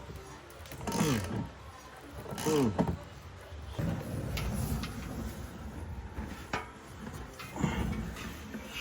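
Exhaust pipe being stretched with a pipe expander: the steel creaks in short squeals that fall in pitch, about a second in, again at about two and a half seconds and once more near the end, with scraping and knocking of tools in between.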